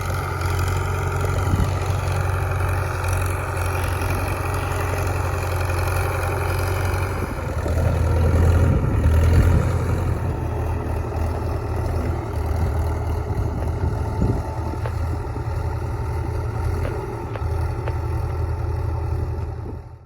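Diesel engine of an International BTD6 crawler dozer running steadily with a deep drone, a little louder about 8 to 10 seconds in.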